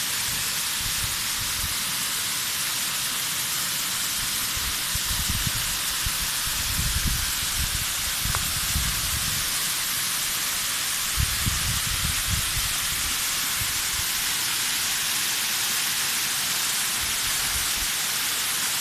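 Steady rushing hiss of a waterfall, with irregular low rumbles for a few seconds about a quarter of the way in and again past the middle.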